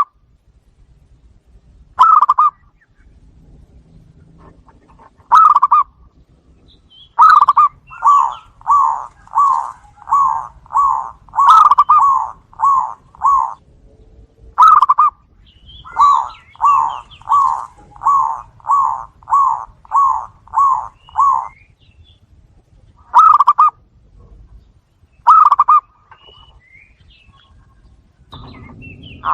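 Zebra doves (perkutut) cooing: single coos a few seconds apart, broken by two long runs of quick coo notes about a second in and about halfway, each with around eight to ten notes. A faint series of high, thin chirps runs along with the cooing runs.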